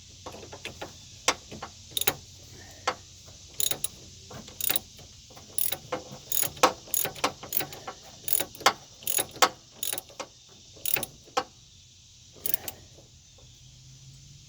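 Ratchet wrench clicking in short, uneven runs of strokes as a nut is tightened on an air-conditioning line fitting.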